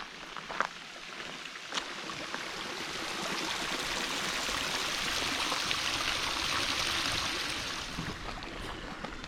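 Flowing stream water, a steady rushing hiss that swells louder through the middle and eases near the end.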